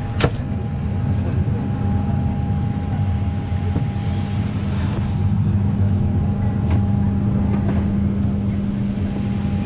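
Steady engine drone with a constant low hum and a thinner steady whine above it. A single sharp click comes just after the start.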